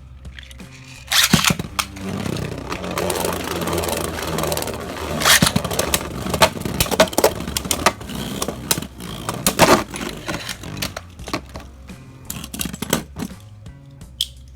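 Two metal Beyblade spinning tops, Storm Pegasus and Lightning L-Drago, launched into a stadium about a second in, then whirring and clashing with sharp metallic clicks that thin out over the last few seconds. Background music plays throughout.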